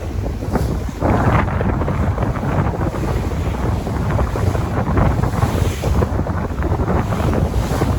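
Sea waves washing and breaking on the shore, with wind buffeting the microphone in a heavy low rumble; the surf swells up about a second in.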